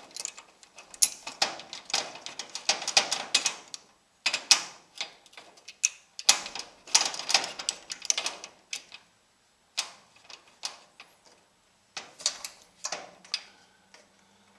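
Bursts of mechanical clicking and metallic rattling from hardware handled by hand, in clusters a second or two long with short quiet gaps between them.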